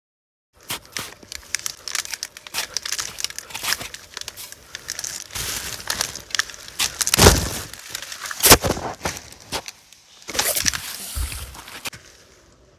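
Crinkling, rustling and clattering handling noise made up of many irregular clicks, with two heavy thumps about seven and eight and a half seconds in.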